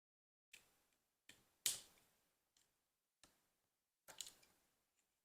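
Plastic LEGO pieces clicking and tapping as they are handled and pressed together: a scattered series of sharp clicks, the loudest about a second and a half in, with a quick double click a little past the middle.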